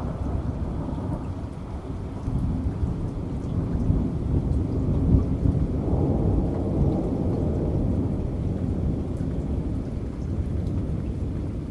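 Thunder rumbling low over steady rain. The rumble swells a couple of seconds in and eases off toward the end, with faint raindrop ticks above it.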